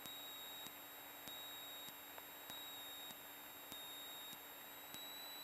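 Faint hiss on the Cessna 152's intercom audio line, with a steady high whine and a soft electrical tick about every 0.6 s. No engine sound comes through.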